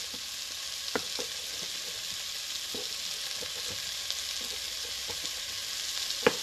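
Steady sizzle of chopped onion and pot barley toasting in olive oil in a pot, with a few sharp knocks of a knife against a cutting board as roasted tomatoes are chopped, the loudest near the end.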